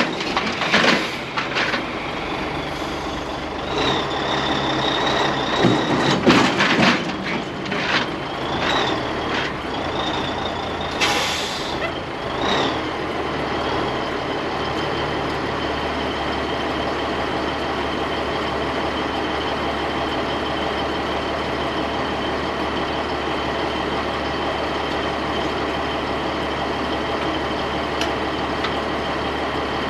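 Heavy diesel truck engine idling steadily. Over the first dozen seconds there are knocks and hissing bursts and a high tone that bends up and down several times, then only the steady idle.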